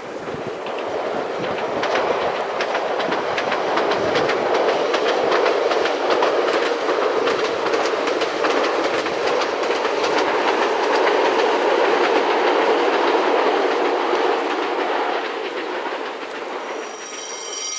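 A TER passenger railcar passing, its wheels clicking over the rail joints. The sound swells over the first couple of seconds, holds, and fades away in the last few seconds.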